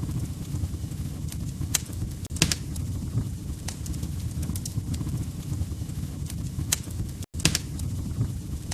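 Wood fire crackling in a fireplace: a steady low rumble of burning logs with scattered sharp pops and snaps, cutting out for an instant about seven seconds in.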